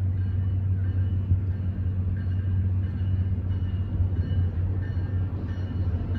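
Train rolling along with a steady low rumble.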